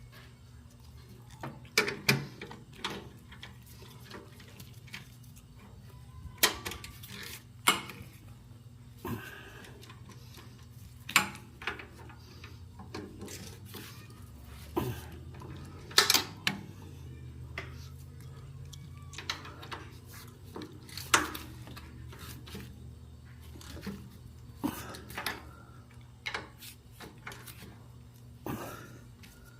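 Irregular metallic clinks and knocks of hand tools and bolts against motorcycle parts while a heel-toe shifter is being fitted, over a steady low hum.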